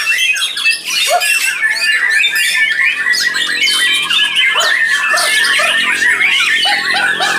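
Many white-rumped shamas (murai batu) singing at once in a dense, unbroken chorus of overlapping chirps, trills and whistles, as in a songbird contest round.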